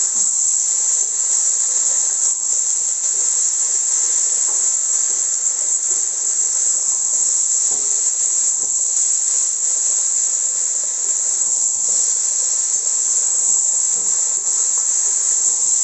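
Spiced potato and taro pieces frying in oil in a steel wok: a steady, high sizzle, with a few faint knocks of the spatula against the pan as they are stirred.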